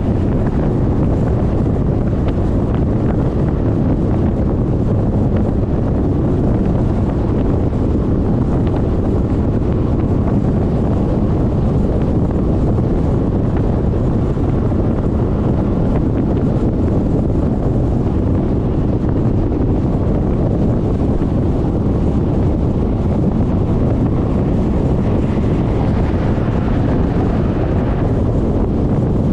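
Wind rushing over the microphone of a GoPro mounted on a moving Suzuki Burgman 400 scooter, a steady low rumble with road and vehicle noise under it. A brighter hiss rises for a couple of seconds near the end.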